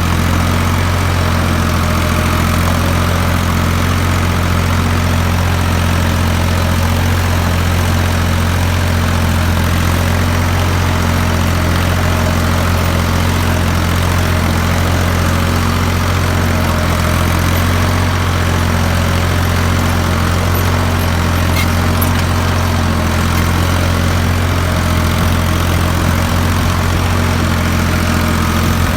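Ford 3600 tractor's three-cylinder engine running steadily at an even speed, with a deep, unchanging note.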